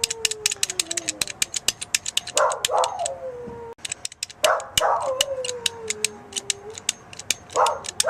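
A dog barks twice and then lets out a long howl falling in pitch, three times over, about every two and a half seconds. Under it a rapid train of sharp, high clicks keeps going, the doorbell being rung over and over.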